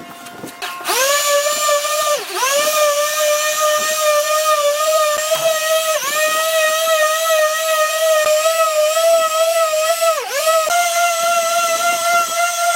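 An electric power tool, drill-like, running with a steady high whine. Its pitch sags briefly three times as it is loaded, then steps up slightly near the end.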